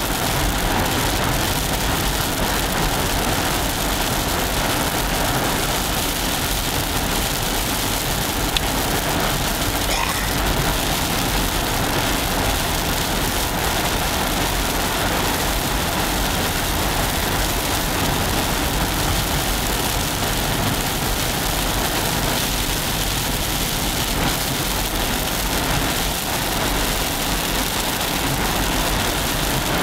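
Hail and rain falling steadily on a car, a dense even hiss with a car engine running underneath.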